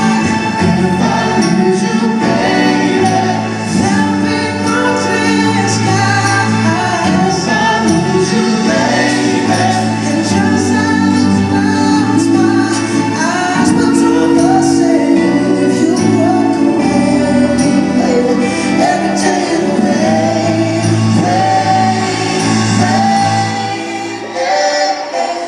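Live pop ballad performance: singing over a band accompaniment.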